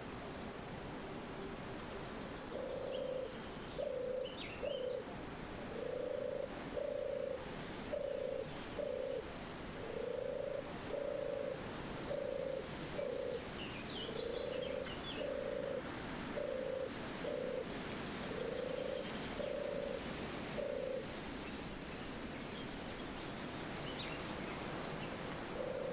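An animal's low, hollow call, repeated in short phrases of two or three level notes for most of the stretch, then stopping about 21 seconds in. Under it runs a steady wind-like hiss, and faint high bird chirps come through a few times.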